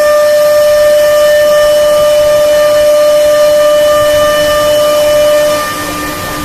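CNC wood router running: a steady high whine over a hiss of noise. The main whine stops about five and a half seconds in and the sound gets quieter.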